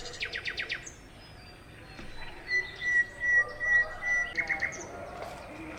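Birds singing outdoors: a quick run of about seven downward-sweeping chirps at the start, then a high whistle of repeated notes held for nearly two seconds, with other short calls mixed in.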